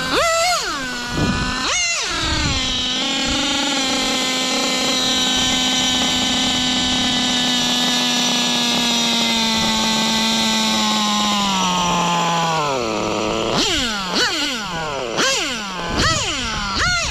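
Nova Mega SX21 nitro RC engine revving: two quick blips, then held at high revs for about ten seconds, sagging slightly before dropping off, then blipped up and down several times near the end.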